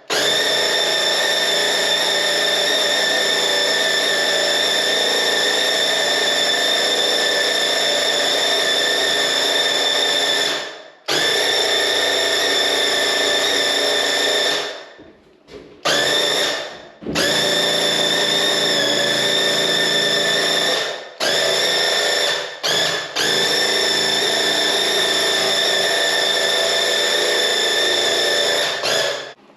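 Graco QuickShot cordless airless paint sprayer spraying walls, its pump running with a steady whine. It stops briefly several times as the trigger is let go, with the longest run lasting about ten seconds at the start.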